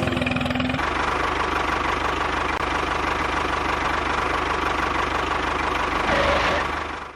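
Engine running steadily at idle with a fast, even chugging pulse. It sets in about a second in and fades just before the end.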